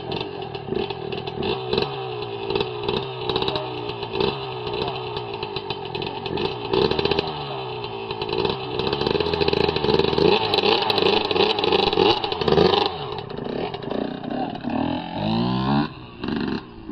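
Dirt bike engine revving, its pitch rising and falling again and again. It gets louder in the middle and eases off about thirteen seconds in.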